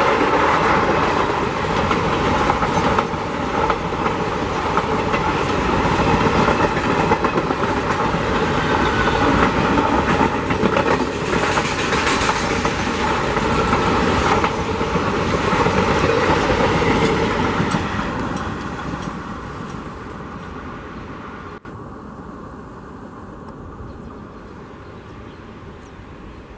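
Passenger coaches of an express train running past at speed close by, steel wheels clattering and rumbling on the rails. About two-thirds of the way through the sound fades away to a much quieter distant rumble, broken once by a sudden cut.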